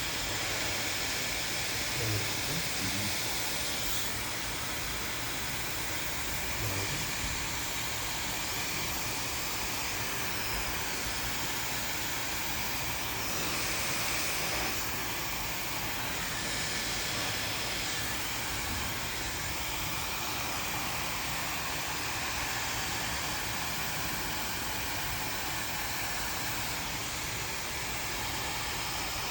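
Handheld hair dryer blowing steadily throughout, a continuous airy hiss.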